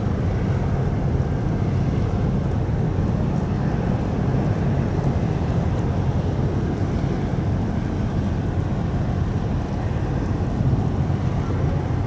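The ferry Mishima's engines running with a steady low rumble, mixed with wind noise on the microphone.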